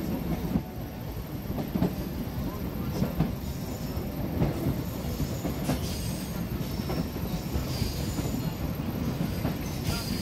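Fareed Express passenger train running along the track: a steady rumble with frequent irregular knocks and clatter from the wheels, and a few faint high wheel squeals.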